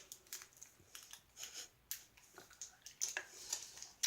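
Faint crinkling and scattered small clicks from Toxic Waste sour candy packaging being handled.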